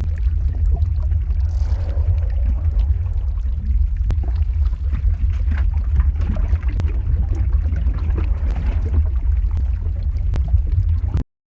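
Lava flow ambience sound effect: a steady deep rumble with scattered crackles and pops over it, cutting out abruptly near the end.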